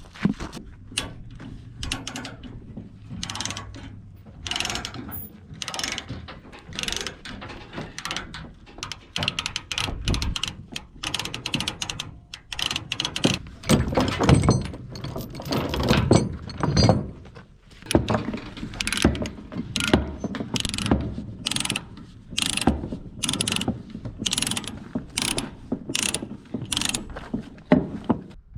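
Ratchet chain binders being worked to release the tie-down chains on a trailer, a long run of quick ratcheting clicks with chains clanking, loudest around the middle.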